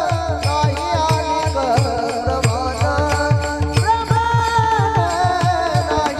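Marathi kirtan devotional music: a wavering melody line over a steady sustained drone, with quick, even drum beats underneath.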